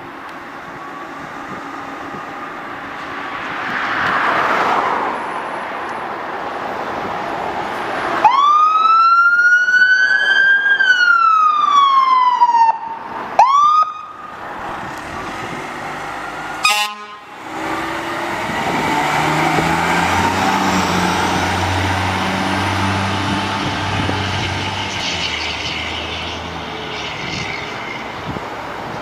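Fire engine siren sounding one wail that climbs, then falls away over about four seconds, followed by a short chirp. A brief horn blast comes a few seconds later, then the pumper's engine drones low.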